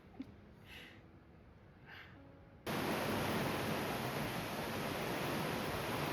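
Heavy rain falling in a loud, steady hiss that starts abruptly about two and a half seconds in, after a quiet stretch with a few faint soft sounds.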